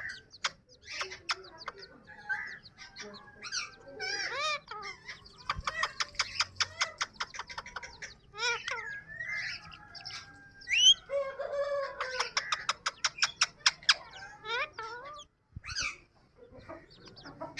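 Yellow ring-necked parakeet chattering: warbling whistles, short squawks and two long runs of rapid clicks, one about six seconds in and another about twelve seconds in.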